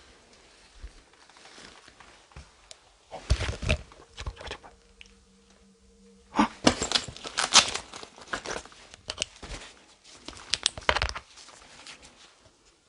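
Rustling and crunching noises in three bursts of a second or two each, like handling or treading on crackly material in a small room, with a faint steady tone between the first two bursts.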